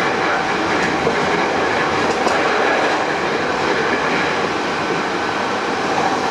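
Running noise inside a Hankyu 8000 series car (set 8006F, Toshiba GTO-VVVF) moving steadily along the line: a constant rumble of wheels on rail with a faint steady whine.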